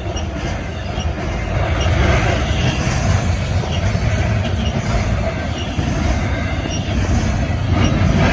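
Double-stack container train rolling past: a steady, heavy rumble of wheels on rail with a faint high wheel squeal, growing louder about two seconds in.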